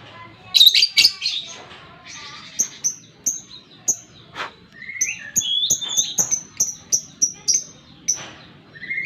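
Lovebird calling. A loud burst of shrill calls comes about half a second in, followed by a rapid series of short, sharp high-pitched chirps, roughly three a second, mixed with lower squeaky notes.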